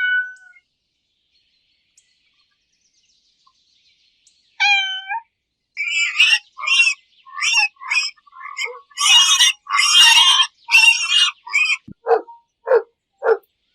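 A series of animal calls: a short pitched call, then after about four seconds of quiet a run of harsh, screechy calls, ending with four short, lower calls about half a second apart.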